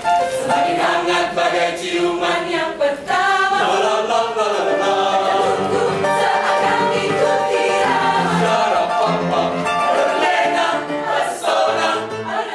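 A mixed choir singing in parts, voices sustaining and bending through long sung phrases.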